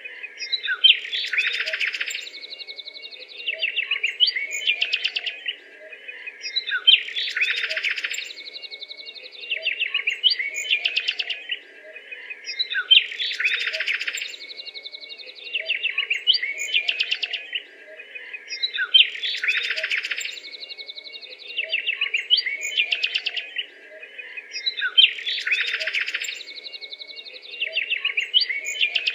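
A dense chorus of small birds chirping and chattering. It is a short recording looped, so the same burst of rapid chirps comes back about every six seconds.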